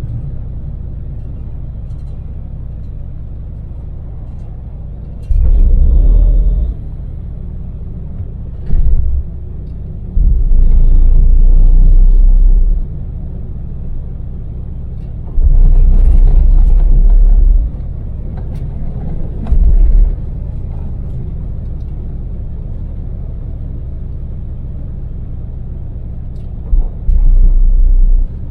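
Steady drone of a Daewoo Damas microvan's small three-cylinder LPG engine and tyre noise, heard from inside the cab while cruising on an expressway. It is broken six times by much louder, deep rumbles that start and stop abruptly, each lasting from half a second to about two and a half seconds.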